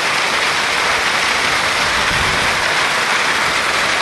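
Heavy rain mixed with hail pelting down, a loud, steady, dense hiss.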